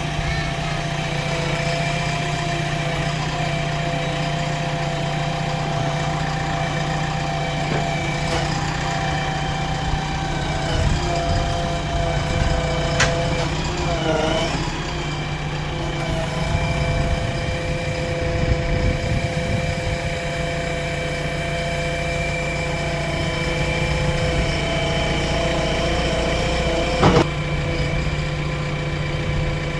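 JCB backhoe loader's diesel engine running steadily, with a brief dip in pitch about halfway through and a couple of sharp clicks or knocks.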